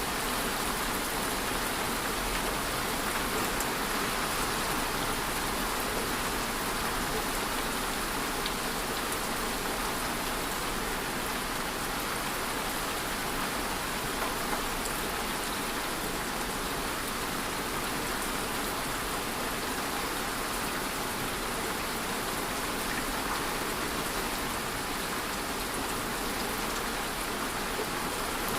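Steady rain ambience: an even hiss of falling rain, unchanging in level and with no breaks.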